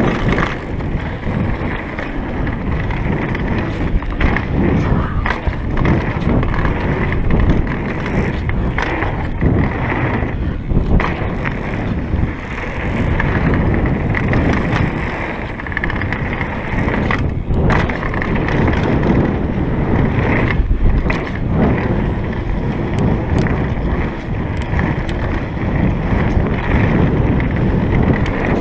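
Kona Stinky downhill mountain bike descending a dirt trail at speed: tyres rolling over dirt and rocks under a steady rush of wind, with frequent sharp clicks and rattles from the bike over bumps.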